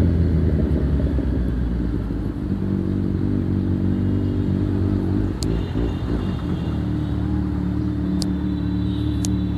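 Kawasaki Z900's inline-four engine through an Akrapovic full-system exhaust, idling after the revs drop away. The idle is uneven at first and settles to a steady note about seven seconds in.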